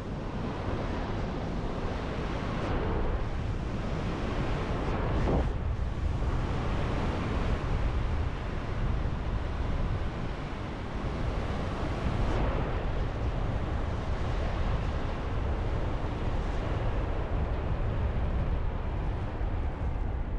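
Wind rushing and buffeting over the microphone in flight, with slow swells in loudness, and no engine running.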